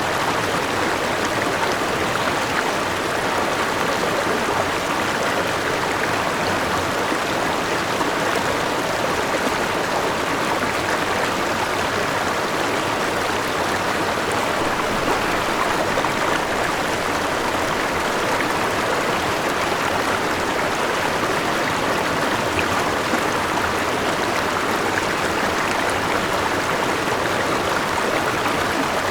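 Forest river rushing steadily over rocks, a continuous even wash of flowing water.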